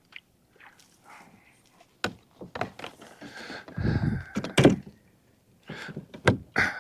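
A run of knocks and thumps against a kayak, starting about two seconds in, with another cluster near the end.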